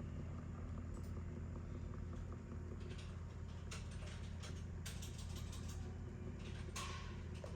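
Steady low electrical hum, with a scattering of light clicks and taps in the second half and a brief crackle near the end.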